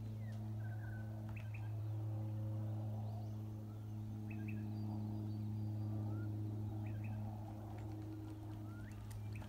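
Birds chirping in short, scattered calls, some with a quick upward hook, over a steady low hum.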